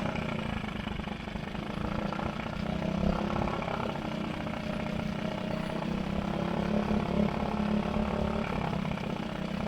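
Small dinghy outboard motor running steadily at idle while mounted in a test bucket of water, just after its spark plug was refurbished; the owner feels it is still not running quite as it should. The sound cuts off abruptly at the end.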